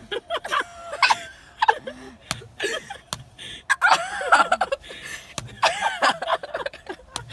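Several boys laughing and shrieking, broken by a few sharp smacks as fists hit a rubber-band-wrapped watermelon.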